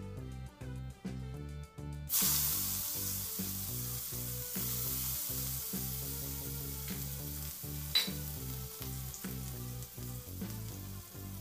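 Chopped onion and carrots hitting hot oil in a kadhai: a loud sizzle bursts in suddenly about two seconds in and carries on as they fry, easing slightly. There is one sharp click about eight seconds in. A rhythmic background music track runs underneath.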